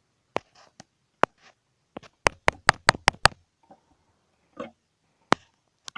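Sharp clicks and taps from handling small objects. Single clicks are spread apart, with a quick run of about six clicks in just over a second near the middle.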